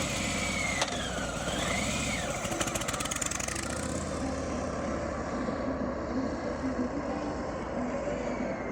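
Harley-Davidson Fat Boy's Milwaukee-Eight 114 V-twin engine running with a steady rumble. A high wavering tone sounds over it in the first two seconds or so.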